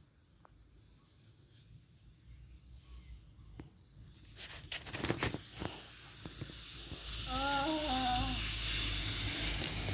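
A few light clicks and knocks, then from about seven seconds in a steady rush of water poured over a person's head during hair washing. A voice hums briefly over the water.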